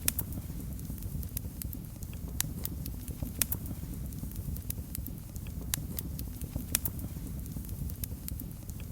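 Wood fire burning in a fireplace: a steady low rumble of flames with irregular crackles and sharp pops scattered throughout.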